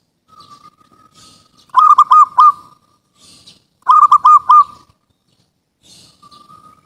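Zebra dove (perkutut) cooing: two loud phrases about two seconds apart, each a soft drawn-out note followed by about four quick rolling notes.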